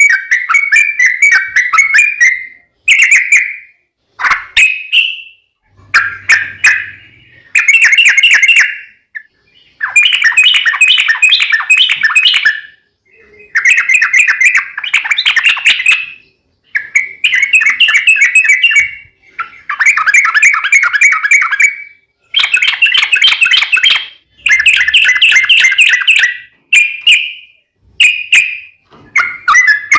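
Yellow-vented bulbul (trucuk) singing its long rolling "ropel" song: loud, bubbly phrases of quick warbled notes, about a dozen of them, each one to three seconds long, with short pauses between.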